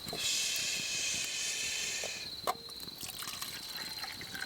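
Hot sake being poured into a cup: a trickling pour lasting about two seconds, then a light tap. Crickets chirp steadily behind it.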